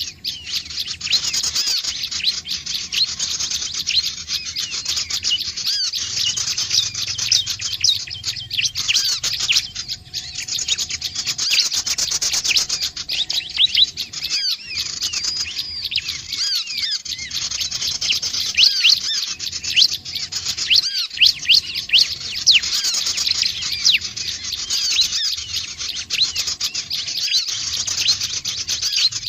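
Prinias (Indonesian prenjak/ciblek) calling in a dense, unbroken stream of rapid high chirps and short trills, many overlapping at once. This is the kind of call played as a lure to bring other small birds in.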